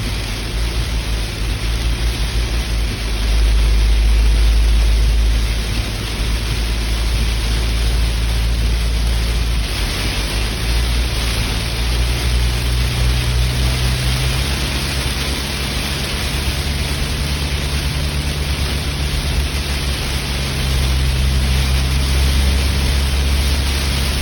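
Steady rain with a deep low rumble underneath, which swells for a few seconds near the start and again near the end.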